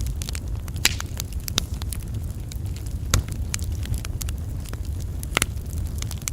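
Wood logs burning on an open campfire: a steady low rumble of flame with irregular sharp crackles and pops, the loudest about a second in, around three seconds in and near five and a half seconds.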